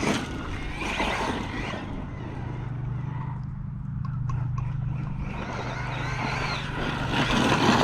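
Arrma Mojave 6S RC truck driving and bashing over rough grass and rocks, its tyres and running gear swelling loudly near the start and again near the end, with a steady low hum between.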